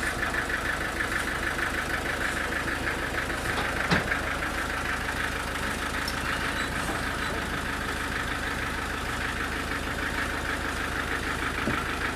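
An engine running steadily at low speed with an even pulse, and one sharp knock about four seconds in.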